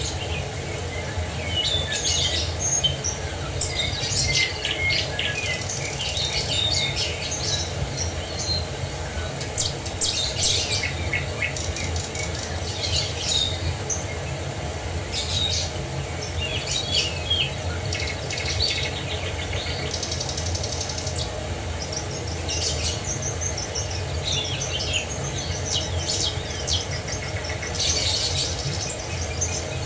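Several songbirds chirping and trilling in short, overlapping calls, over a steady low rushing background.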